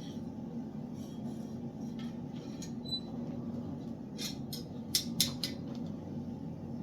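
A steady low hum with light metallic clinks, a quick cluster of about five just past the middle, as small metal pieces are handled.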